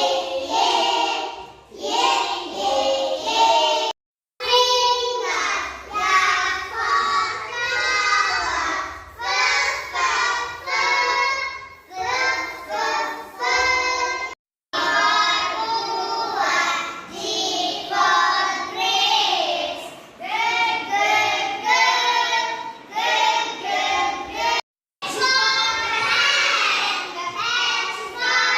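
A group of young children singing together, a phonics song chanted in unison, cut by three brief silent gaps.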